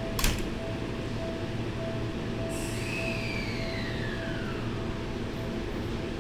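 Electric commuter train standing at a station platform: a sharp clunk just after the start as the doors shut, then about two and a half seconds in a burst of air hiss with a whistle falling in pitch. A short tone repeats in pulses throughout.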